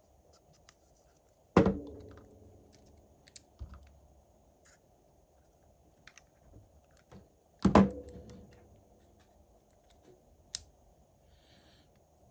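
Small tools being handled at a repair bench: scattered light clicks and taps, and two sharp knocks, each with a short ring, about six seconds apart.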